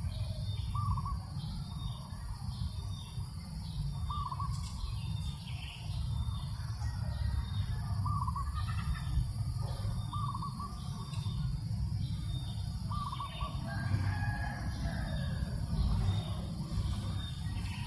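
Farm ambience with wind rumbling on the microphone, birds calling in short repeated notes every second or two over a steady high chirping, and a rooster crowing about fourteen seconds in.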